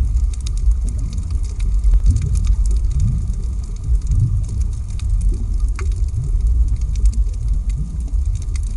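Underwater ambience: a deep, steady rumble with short, low rising moans every second or so and scattered crackling clicks.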